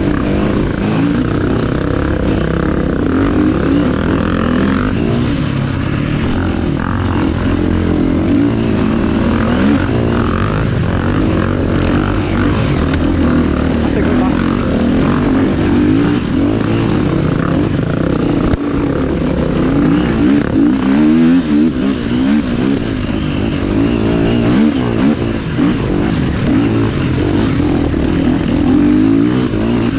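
Enduro dirt bike engine running continuously, its pitch rising and falling as the throttle is opened and closed.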